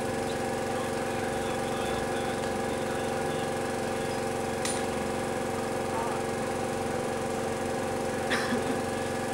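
Renault 8 Gordini's rear-mounted four-cylinder engine idling steadily at an even pitch, with a couple of brief clicks, the second about eight seconds in.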